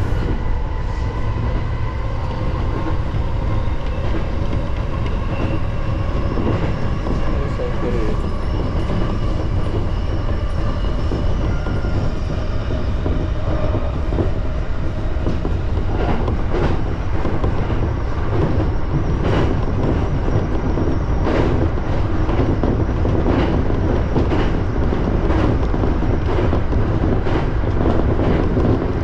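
E231 series electric commuter train running, heard from inside the car: a steady rumble of wheels on rail with a faint motor whine that sinks slightly in pitch over the first half. From about halfway, sharp clicks of the wheels over rail joints come every second or two.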